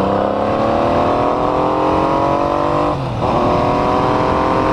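Triumph Legend TT's three-cylinder engine pulling under acceleration while riding, its pitch rising steadily. About three seconds in it dips briefly for an upshift, then climbs again from a lower pitch.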